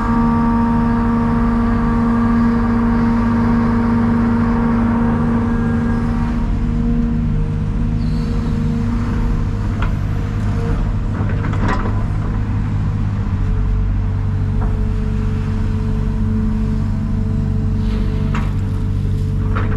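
Heavy diesel engine running steadily with a strong hum; its higher whine fades out about six seconds in. A few light clicks or knocks come about ten to twelve seconds in and again near the end.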